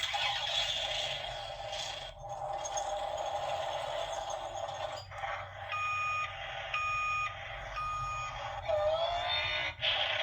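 Sound-book sound effect of a construction truck: an engine running with a rough noisy rumble, and three steady reversing beeps about a second apart in the middle.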